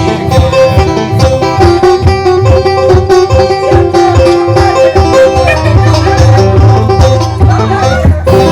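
Live acoustic bluegrass playing a song's instrumental ending, a banjo picking quick notes over guitar.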